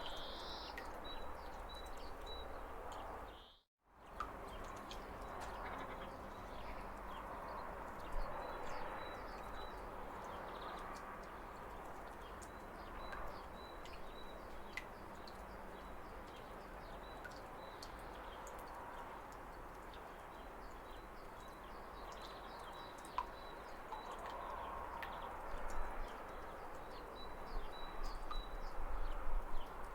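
Waterfall running with a steady rush, over a bird repeating short high chirps. The sound cuts out to silence for a moment about four seconds in.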